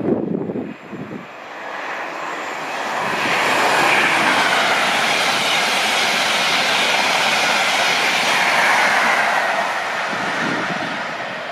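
An express passenger train passes through the station at speed: a rising rush of wheel and air noise that holds loud for several seconds, with a faint falling whine in it, then fades. Wind buffets the microphone at the start and again near the end.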